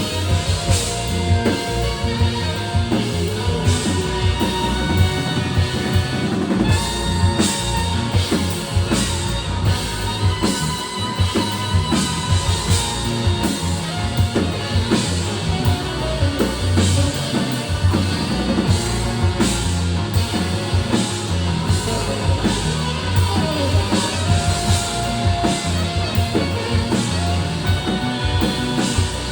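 Rock music with a drum kit keeping a steady beat under a strong bass.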